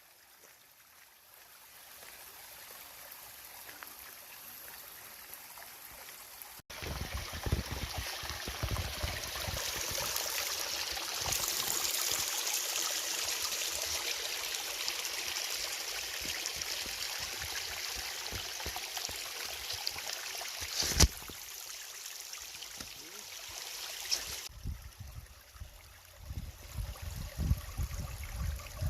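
Stream water running steadily, fading in at first and then louder after an abrupt change about seven seconds in. There is a single sharp click about three quarters of the way through, and uneven low rumbling near the end.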